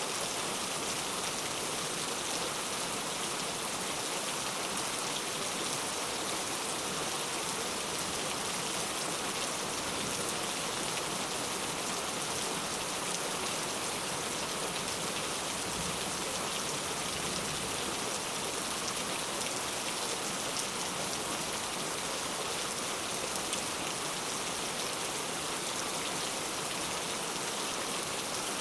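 Steady rainfall, a constant even hiss of many drops falling on a surface, with no thunder or change in intensity.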